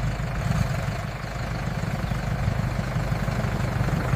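Tractor engine sound effect running steadily with a low, rapid chugging.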